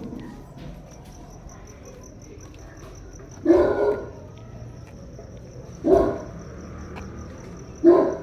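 A dog barks three times, about two seconds apart, over a cricket chirping steadily in the background.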